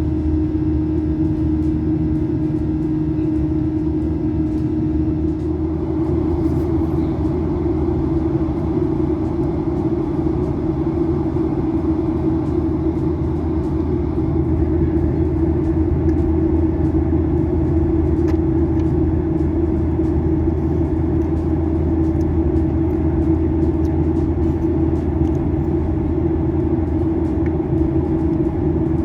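Steady engine and airflow drone inside the cabin of a Spring Japan Boeing 737-800 jet airliner in flight, with a strong low hum. Its fine steady tones turn into a rougher rushing noise about six seconds in.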